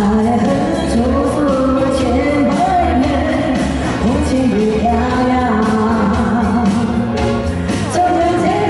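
Pop song: a voice singing a melody over a band with a steady drum beat.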